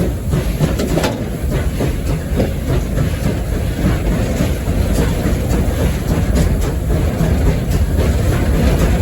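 Steam locomotive running along the track, heard from inside its cab: a steady heavy rumble with scattered clanks and knocks from the running gear and rail joints.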